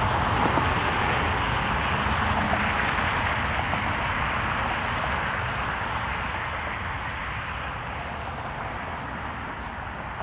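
Jet airliner's engines, a steady roar that slowly fades as the aircraft moves away.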